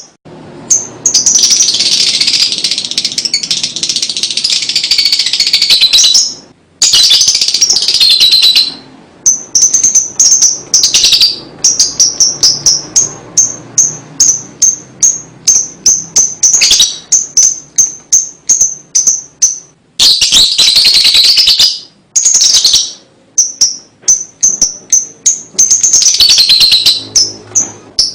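Lovebird singing: long, rapid, dense chattering trills alternating with runs of short, sharp repeated high chirps at about three or four a second.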